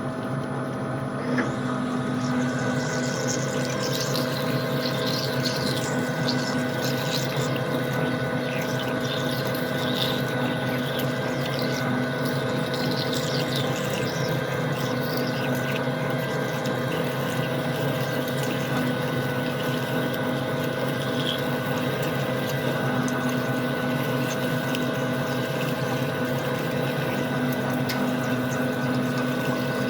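Metal lathe running steadily while turning a steel part, its motor and gearing giving a constant hum. Scratchy cutting noise from the tool on the steel starts about a second and a half in.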